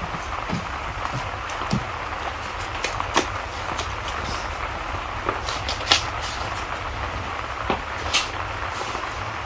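Steady rain hiss over a low, constant rumble, with a wood fire crackling and popping at irregular moments. The sharpest pop comes about six seconds in.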